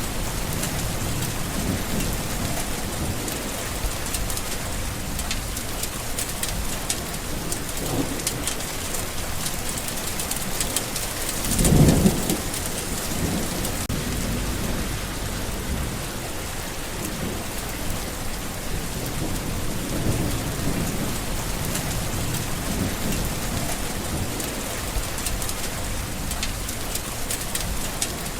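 Steady rain falling, with low rolls of thunder. The loudest is a short rumble about twelve seconds in.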